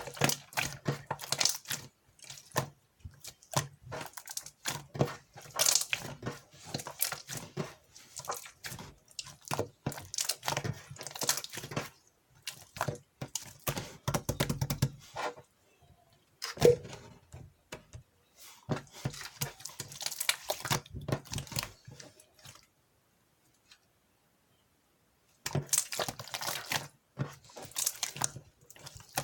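Clear slime being squished and pressed by hand, giving runs of sticky clicks and crackling pops, with a pause of near silence about three-quarters of the way through.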